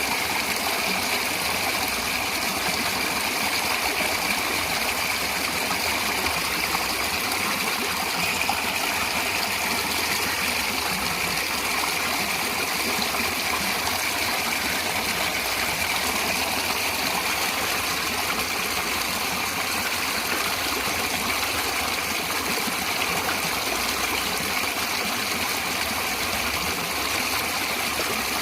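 Flowing stream water running steadily, an even rushing and trickling without breaks.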